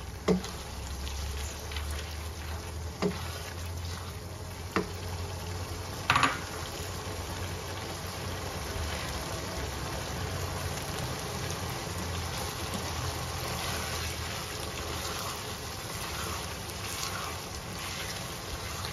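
Peas, potato and chicken sizzling in a wok as they are stirred and fried with a spatula. The spatula knocks against the pan a few times in the first seconds, most sharply about six seconds in, over a low steady hum.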